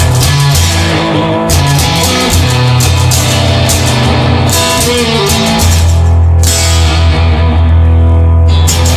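Instrumental passage of a rock song: guitar over a steady bass line and drums, with no singing.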